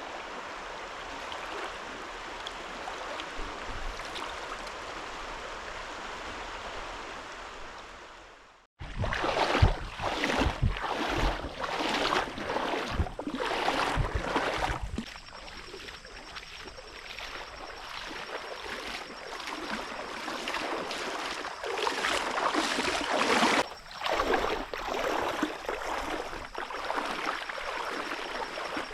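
Steady flowing river water. After a cut about nine seconds in, a louder run of irregular rustles and knocks, with a faint, steady high tone joining from about fifteen seconds in.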